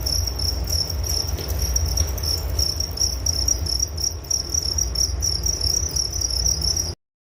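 Crickets chirping in a steady, fast-pulsing high trill, over a low rumble. The sound cuts off suddenly near the end.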